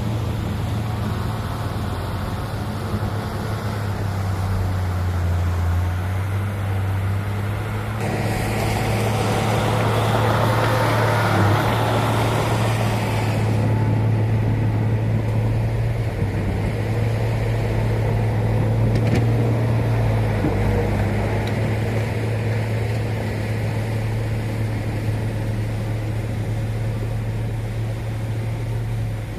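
Diesel engine of heavy earthmoving equipment running steadily under work. About eight seconds in, a louder rushing, scraping noise joins it for about five seconds.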